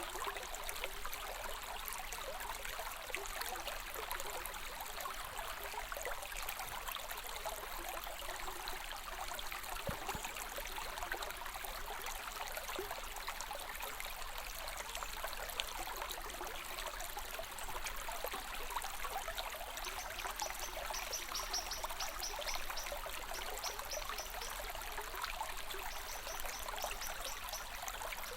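Running water, like a small stream, flowing steadily. From about two-thirds of the way in, short runs of a fast, high-pitched chirping sound over it.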